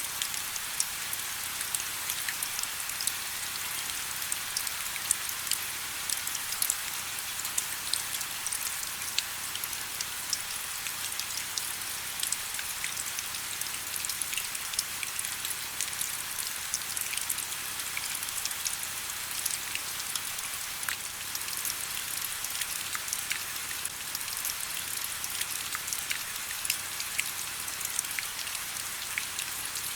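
Steady rain, with many separate drop hits ticking over a constant hiss.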